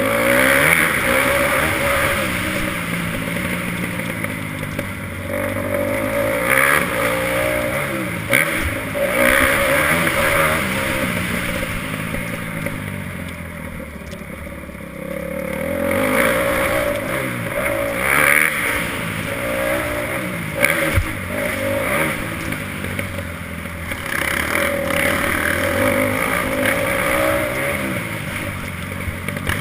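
Motocross bike engine being ridden hard, its revs climbing and dropping again and again as the throttle opens and shuts. It eases off and runs lower and quieter for a few seconds about halfway through, then picks up again.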